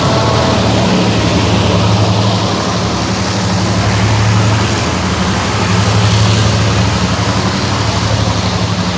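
Heavy engine running steadily, a loud low hum, most likely a locomotive at the station.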